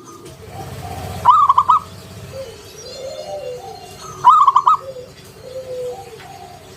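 Zebra dove (perkutut) cooing its quick, rolling call twice, about three seconds apart. Fainter, lower calls run underneath.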